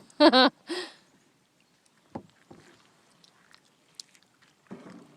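A voice cries out briefly twice in the first second, then a small paddle boat on the water: faint scattered knocks and splashes of paddling.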